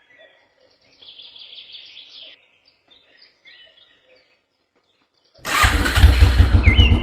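Faint bird chirps, then about five seconds in a loud, rhythmic pulsing sound cuts in abruptly.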